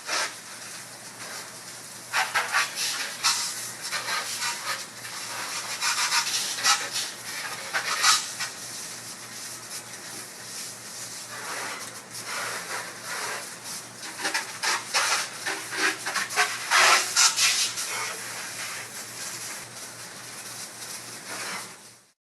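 Rough scraping and rubbing in irregular bursts of quick strokes, with pauses between them, over a faint steady low hum.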